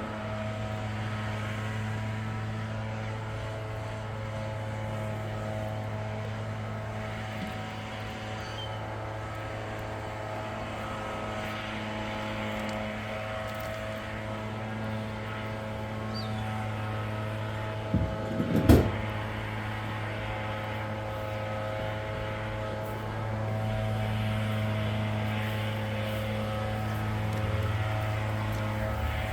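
Gas-powered leaf blower running steadily at a constant engine note while blowing leaves out of a river-rock bed. A single sharp knock, the loudest sound here, comes about two-thirds of the way through.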